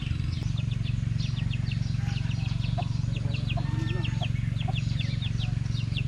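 Small birds chirping in quick short calls, several a second, over a steady low hum.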